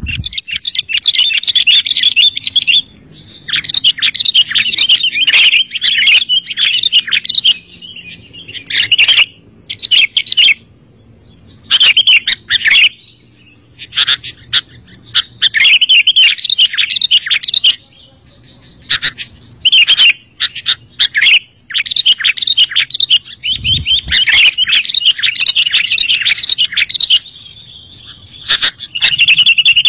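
Sooty-headed bulbul (kutilang) singing: quick, chattering, twittering phrases of one to three seconds each, repeated with short pauses.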